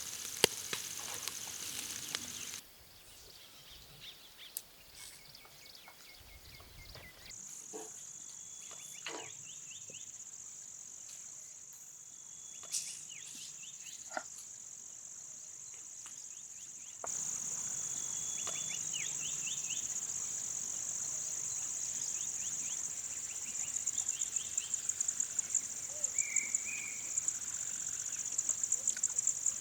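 Insects chirring in a steady high drone that cuts out and back in abruptly a few times, turning into a rapid pulsing trill near the end, with a few scattered clicks.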